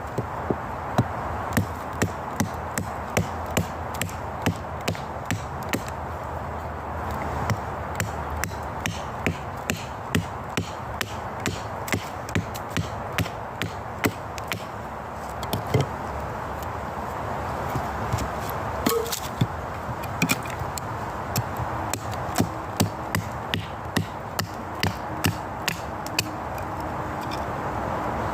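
Wood being chopped: a steady run of sharp chopping strikes, a little under two a second, over a constant background hiss.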